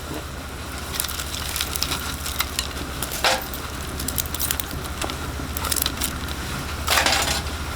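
Newly lit kindling fire crackling and snapping as it catches, with a few louder crunching bursts about three and seven seconds in.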